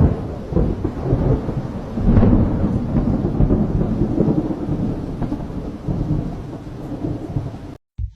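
Thunder close by: a sudden crack, then a long, heavy rumble that swells about two seconds in and rolls on for several seconds before cutting off abruptly.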